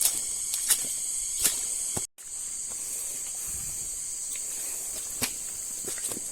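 A steady high-pitched insect chorus from tropical forest, with scattered sharp clicks and crackles like steps on leaf litter. The sound cuts out briefly about two seconds in.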